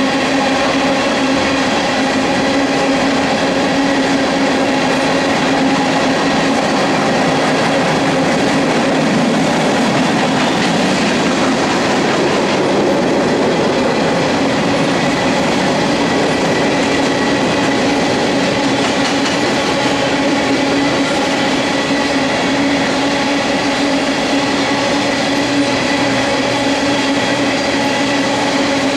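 Empty coal hopper cars of a freight train rolling past, a steady run of wheel-on-rail noise and car clatter with steady tones running through it.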